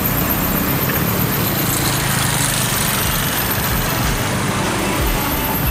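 Street traffic: engines of vehicles running close by, with passing cars, a steady mix without any single event standing out.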